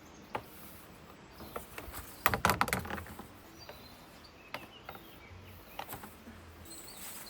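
Scattered light knocks and clicks from objects being handled, with a short clatter of several quick knocks about two and a half seconds in, over faint outdoor background.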